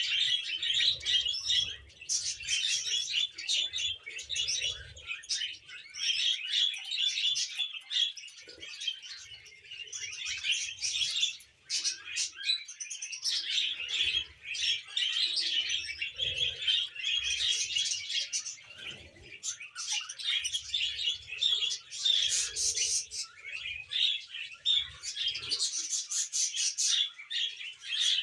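A flock of pet budgies and cockatiels chirping and chattering in quick, dense runs, with a couple of short lulls.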